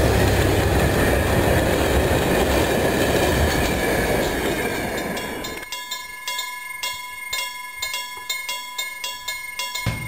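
Railway wagons rolling past at speed with a loud, steady rumble that fades. About six seconds in this gives way to a level-crossing warning bell ringing in rapid, even strikes.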